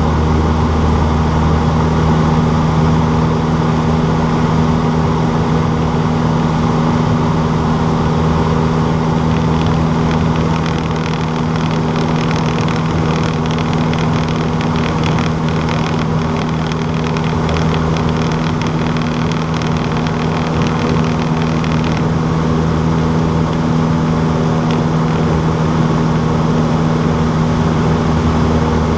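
Cessna 152's four-cylinder piston engine and propeller running in a steady drone at constant pitch, a little quieter from about a third of the way in.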